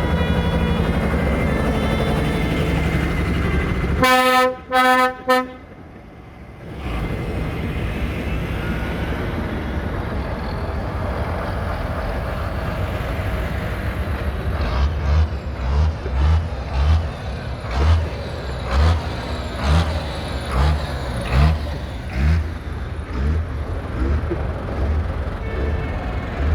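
Vintage tractor diesel engines running as tractors drive off, with a horn tooted three times about four seconds in. In the second half a low, uneven beat comes roughly once a second.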